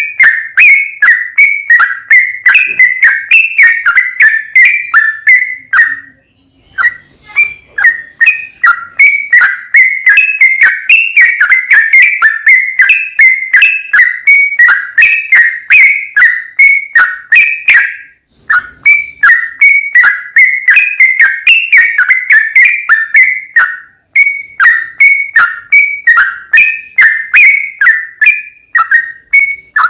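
Yellow-vented bulbul (trucukan) singing a long, fast run of loud whistled notes, several a second and mostly falling in pitch, broken by a few short pauses.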